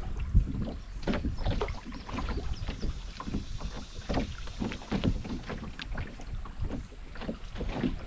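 Canoe on a river: irregular splashing and dripping of water around the paddle and hull, over a low wind rumble on the microphone.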